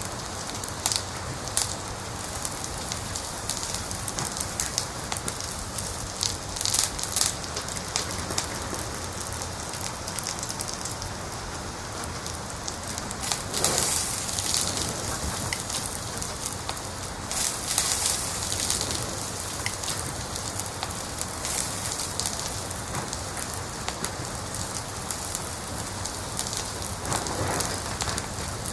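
Wood fire in a fireplace crackling steadily, with frequent sharp pops and snaps, a few louder ones about halfway through.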